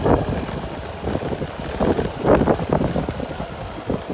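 Wind buffeting a phone's microphone while riding, over a low vehicle rumble that surges irregularly.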